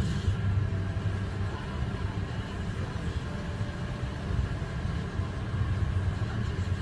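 A car's engine and road noise: a steady low rumble with no impacts.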